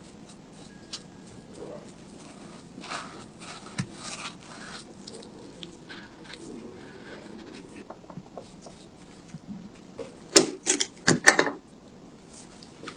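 Hands handling tools and metal gun parts on a work surface: light rubbing and scattered small clicks, then a quick run of loud clacks about ten seconds in.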